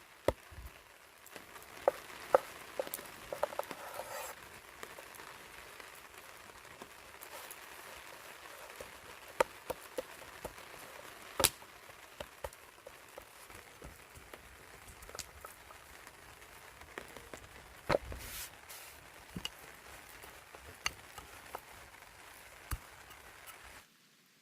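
Outdoor cooking sounds: scattered sharp clicks and knocks, a few of them loud, over a steady soft hiss, cutting off abruptly near the end.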